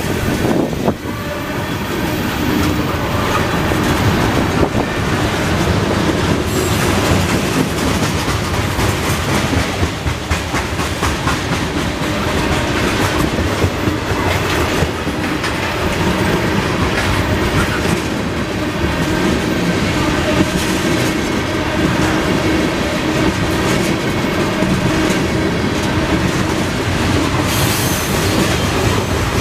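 Freight train cars rolling past close by: a steady rumble of steel wheels on rail with clicking as the wheels cross rail joints.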